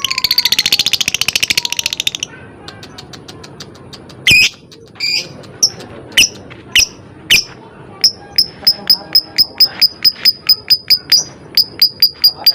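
Lovebird calling: a fast rattling trill for about two seconds, then loud sharp single chirps about half a second apart, then a quick run of high chirps about four a second.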